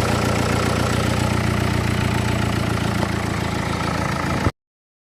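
Dacia Logan's common-rail diesel engine idling steadily just after a restart, then cutting off abruptly about four and a half seconds in. The car has a slow-starting fault with error codes pointing at low fuel rail pressure and the fuel flow regulator circuit.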